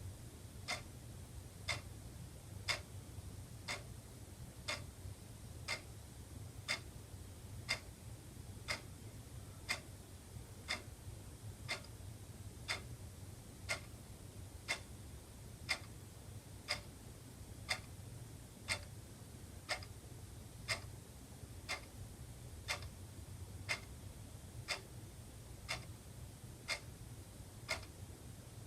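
Wall clock ticking steadily, one tick about every second, over a faint low hum.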